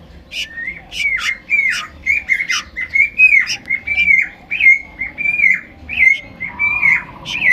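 Young sooty-headed bulbul (kutilang) chicks begging for food, giving a rapid series of short, harsh squawking calls, about three a second.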